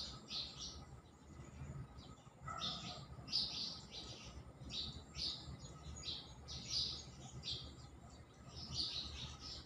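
Small birds chirping in quick clusters of short, high calls that keep repeating, over a faint steady low hum.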